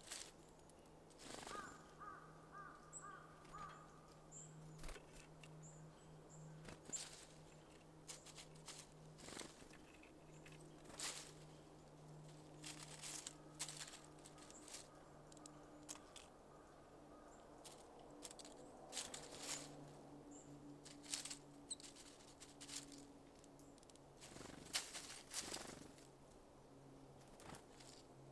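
Small birds at a feeder: scattered wing flutters and quick taps and clicks at the seeds, over a faint steady low hum.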